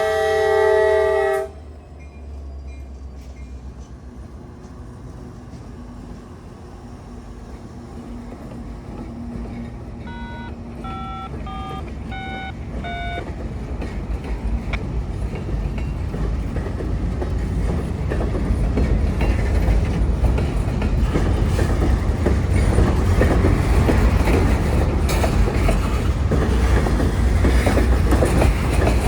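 A locomotive horn blast cuts off about a second and a half in. A CSX freight train led by an EMD SD70MAC locomotive then approaches, its low engine rumble and the rattle of wheels on the rails growing steadily louder through the second half. A string of short beeping tones is heard around the middle.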